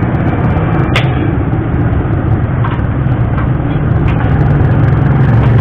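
Suzuki Raider 150 motorcycle engine running steadily, with a sharp click about a second in.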